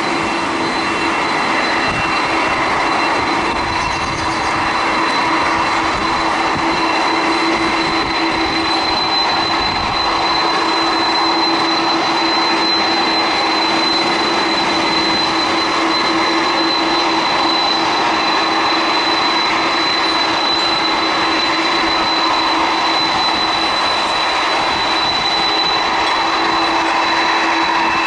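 Boeing 747's jet engines at takeoff thrust: a steady, loud roar carrying a constant high whine and a lower hum.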